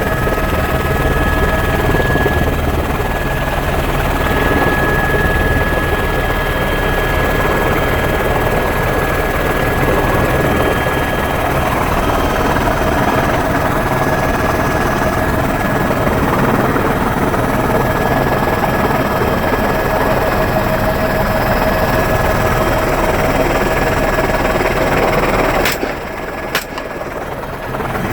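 Helicopter running steadily with a loud, even rotor and engine noise and a steady whine. About 26 s in the noise suddenly drops, with a couple of sharp clicks, then returns.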